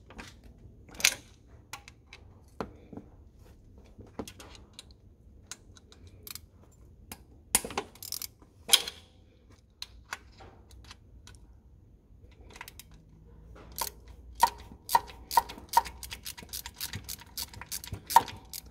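Metal hand tools clicking and knocking against engine bolts while 10 mm bolts are undone, with a few louder single knocks. Near the end comes a run of quick clicks with a slight metallic ring, a few a second and getting faster, like a socket wrench being worked on a bolt.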